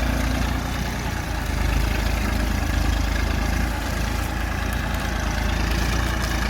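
Tafe 45 DI tractor's three-cylinder 2500 cc diesel engine running steadily with a deep low-pitched sound, dipping slightly about a second in.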